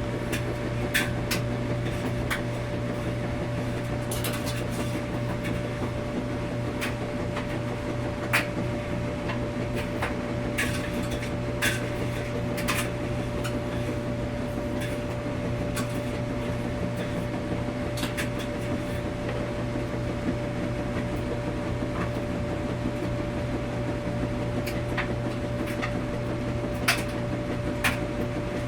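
Washing machine running with a steady low hum and a faint steady whine, with irregular sharp clicks and knocks every few seconds.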